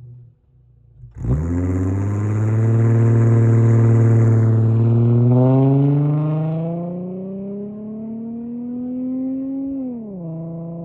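Holden VY Commodore 3.8-litre Ecotec V6 through a Redback exhaust with headers, high-flow cat, middle muffler and straight tail pipe, accelerating hard. It comes on suddenly about a second in and holds its revs briefly. It then climbs steadily in pitch and drops sharply at a gear change near the end.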